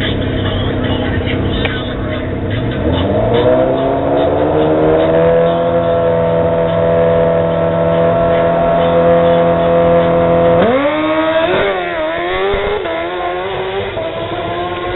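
Drag-racing motorcycle engine idling, then revved up about two seconds in and held at a steady high pitch for about five seconds on the starting line. About ten seconds in it launches, the pitch climbing and dropping sharply at each quick upshift as the bike pulls away down the strip.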